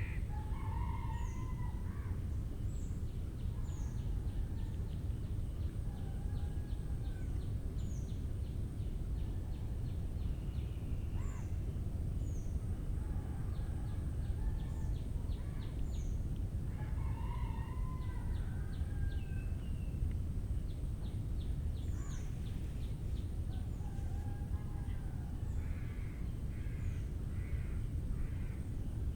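Several birds calling in a mangrove forest, with two longer, crowing-like calls about a second in and again near the middle, rapid high trills and short high chirps. Under them a steady high insect whine and a constant low rumble.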